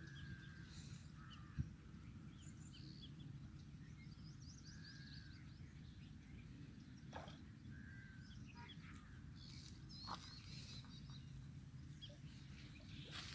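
Faint open-air ambience: a steady low rumble of background noise with scattered small bird chirps and short whistles, and one sharp click about a second and a half in.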